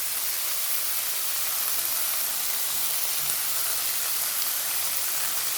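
Carrots and green beans frying in hot oil in a pan, a steady sizzle.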